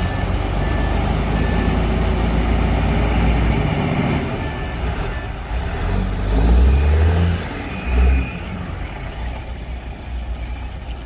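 Heavy diesel machinery (a bulldozer and a dump truck) working under load, with short reversing beeps near the start and again about halfway. The engine sound surges loudly twice about two-thirds of the way through, then settles lower.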